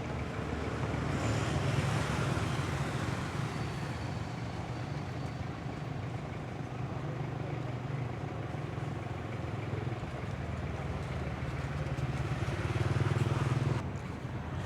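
A steady low motor drone, growing louder about a second in and again near the end, then dropping off suddenly.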